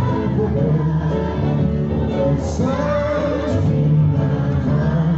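Singing with musical accompaniment in a live performance, sustained notes held under a melody that bends up and down.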